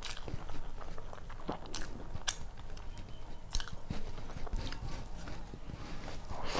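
Close-up chewing of mouthfuls of rice and fried long beans eaten by hand, with sharp wet mouth clicks scattered through and a louder smacking burst near the end.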